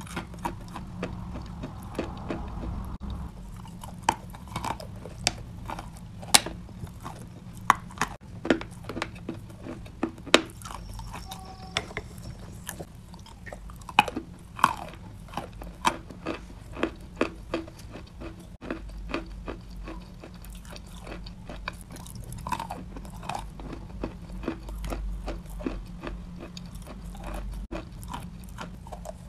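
Close-up crunching and chewing of clay chunks coated in a creamy paste: many sharp crunches at irregular intervals between softer wet chewing, over a low steady hum.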